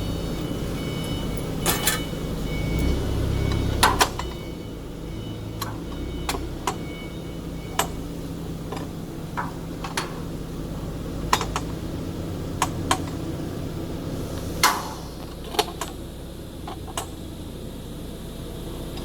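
Irregular sharp metal clanks and clicks, more than a dozen, from parts and hand tools being handled on a band saw cutting machine while its covers come off for blade fitting. A steady low hum runs underneath. The loudest knocks come about 4 and 15 seconds in.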